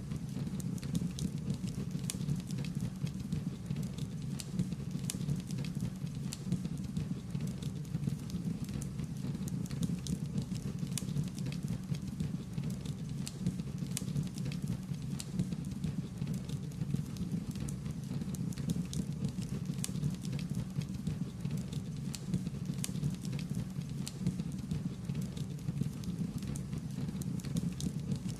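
Wood fire crackling: a steady low rumble of burning with frequent sharp crackles and pops scattered irregularly throughout.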